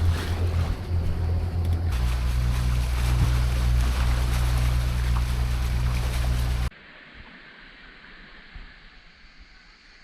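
Sailing catamaran's engine running steadily under way, a low drone with wind and water hiss over it; the note shifts about two seconds in. Near the end it cuts off abruptly, leaving only a faint hiss.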